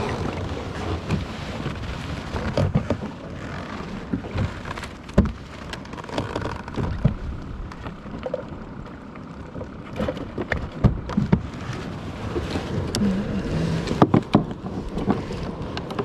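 Wind rumbling on the microphone and water lapping against a plastic sit-on kayak's hull, with many scattered knocks and clicks of gear against the hull.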